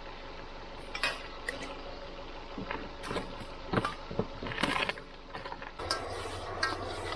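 Scattered clinks and knocks of cooking pots and utensils being handled while setting up to cook meat. A steady low hum comes in near the end.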